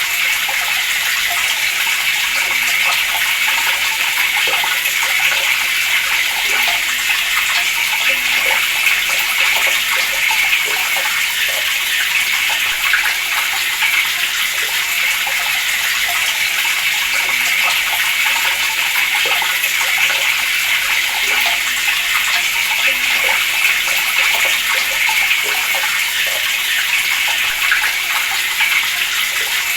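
Water running steadily from a tap, an unbroken splashing flow.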